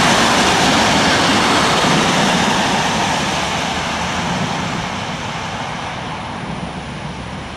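Freight train's covered wagons rolling past on the rails with a steady rumble that fades as the end of the train moves away.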